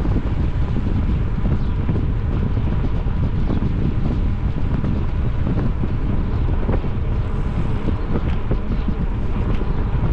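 Wind buffeting the microphone of a camera carried on a moving bicycle: a steady, loud, low rumble.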